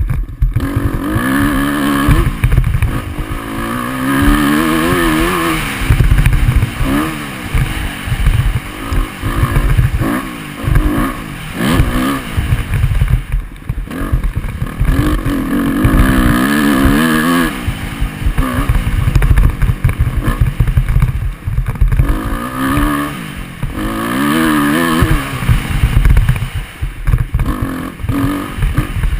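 Motocross dirt bike engine being ridden hard, its pitch rising and falling again and again as the rider opens and closes the throttle and shifts, heard from a GoPro on the bike or rider along with a choppy low rumble.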